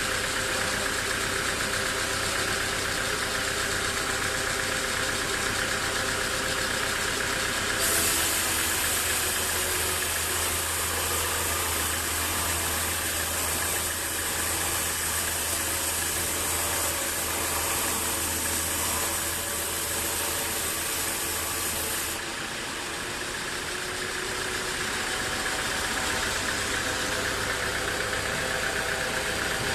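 Band sawmill machinery running steadily, engine-like. For a stretch in the middle, starting and ending abruptly, it turns hissier, with a stronger low hum.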